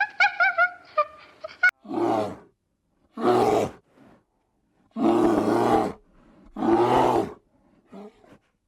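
Animal calls: a quick run of short, high-pitched yips for about the first second and a half, then four separate longer, low, rough calls spread over the rest.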